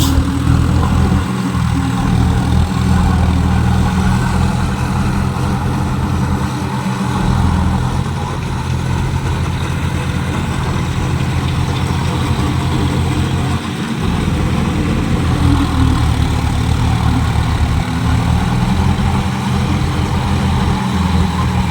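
Tractor diesel engine running steadily at low revs, with a brief dip about two-thirds of the way through.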